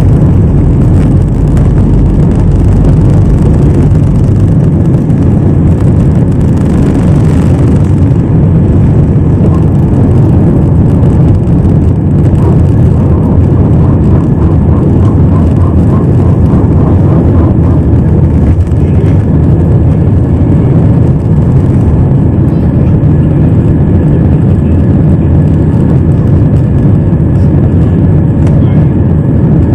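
Jet airliner's engines at takeoff power with a loud, steady rumble of the aircraft rolling and climbing away, heard from inside the cabin.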